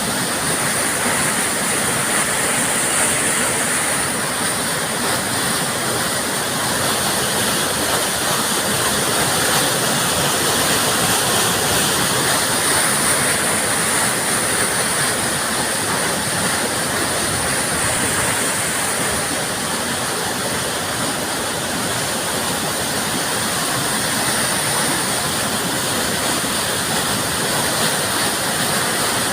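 Steady loud rushing of fast river water pouring through a small dam.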